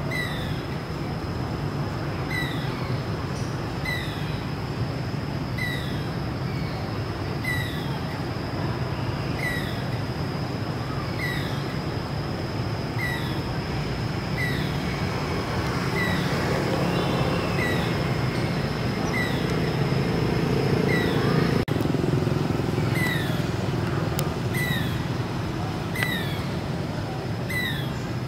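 Outdoor ambience: a bird repeats a short, high, falling chirp about every second and a half over a steady low rumble and a thin, steady high whine. The background swells slightly for a few seconds past the middle.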